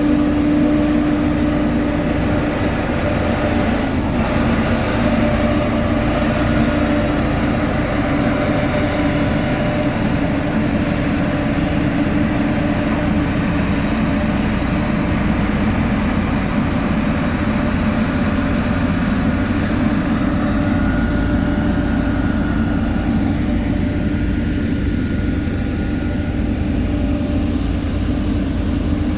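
Heavy diesel road-construction machinery running steadily at constant revs, a loud, even drone with a fixed hum.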